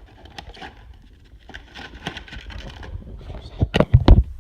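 Hands handling a small model's box and packaging: rustling, scraping and small clicks, then a quick cluster of loud thumps near the end.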